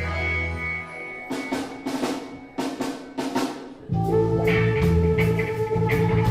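Reggae band music: the bass drops out about a second in, leaving a drum fill of sharp snare and drum strokes, then the full band comes back in with bass and a held note at about four seconds.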